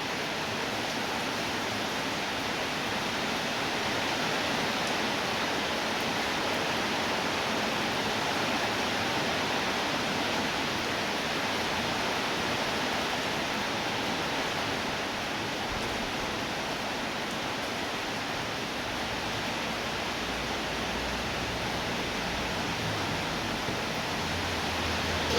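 Steady rainfall, an even hiss without a break. A faint low rumble comes in during the last few seconds.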